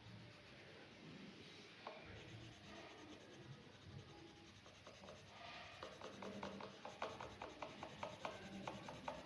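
Faint scratching of a drawing tip on paper: slow, soft strokes at first, then from about six seconds in a run of quick short strokes, several a second.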